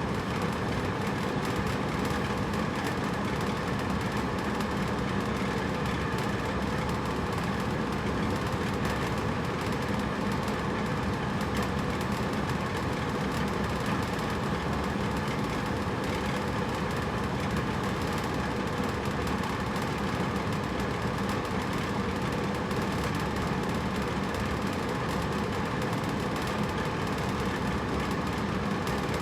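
Hotel room air conditioner running steadily: an even rushing of air with a low motor hum underneath, unchanging throughout.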